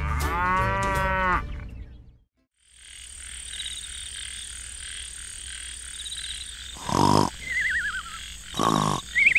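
Night-time ambience sound effect of insects and frogs chirring steadily after a short cartoon voice sound and a brief gap. Twice near the end comes a cartoon snore: a rough snort followed by a wavering, falling whistle.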